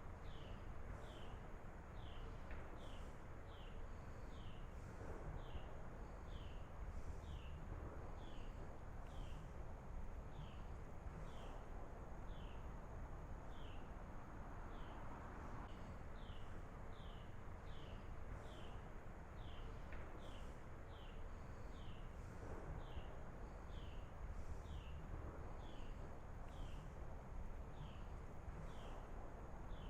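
Faint outdoor ambience of insects chirping: an even run of short chirps, about two a second, over a low steady rumble.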